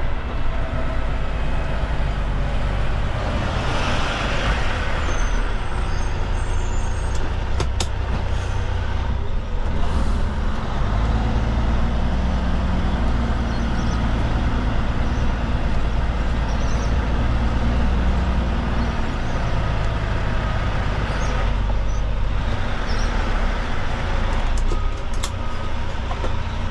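Heavy truck engine running with a deep, steady rumble; the engine note shifts in pitch a few times.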